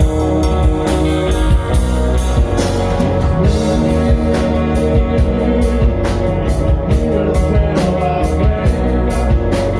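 Rock band playing: drum kit with regular cymbal and drum hits under sustained guitar notes.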